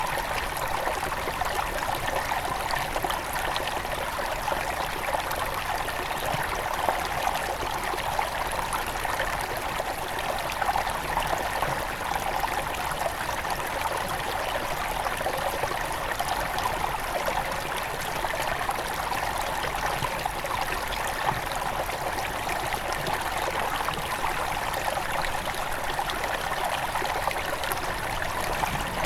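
Small headwater river flowing steadily over stones, a continuous babbling and trickling of water.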